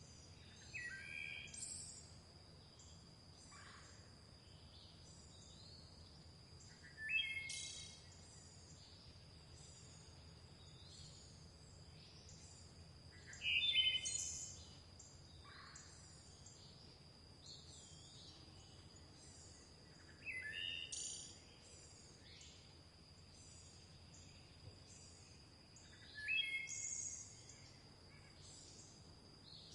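Birdsong: one bird sings a short, loud phrase of several falling notes five times, about every six seconds, while fainter high chirps from other birds run underneath. A steady high-pitched tone holds throughout.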